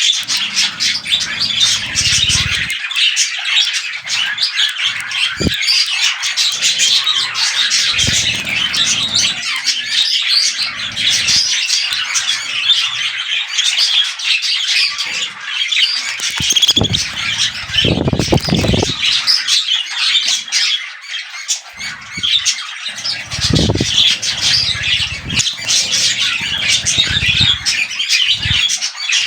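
Several budgerigars chattering and squawking without pause, with a few brief low thumps now and then.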